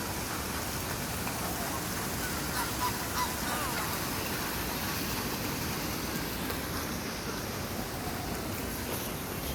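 A few short waterbird calls, likely geese or ducks, about three seconds in, over a steady rushing noise.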